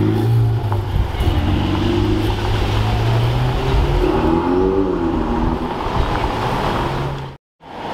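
Ferrari 488 Pista's twin-turbo V8 pulling away at low speed, its note rising and falling as it drives off. The sound cuts out briefly near the end.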